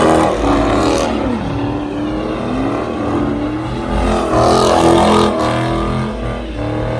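Car engine revving hard, its pitch rising and falling, with louder surges at the start and about four to five seconds in.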